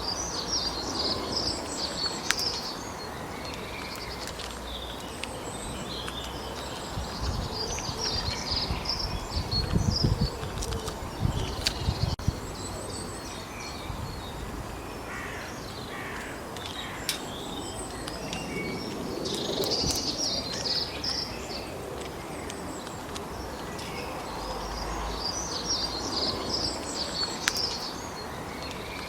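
Wild birds singing in a forest, with repeated bursts of high twittering song over a steady background hiss. Low rumbling thumps, the loudest sound, come between about a quarter and nearly halfway through.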